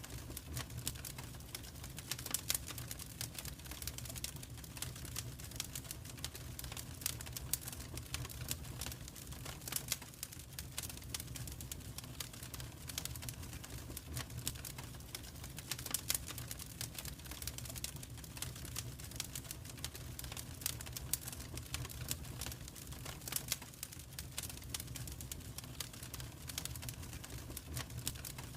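Wood fire crackling in a fireplace: irregular snaps and pops, some louder than others, over a steady low rumble.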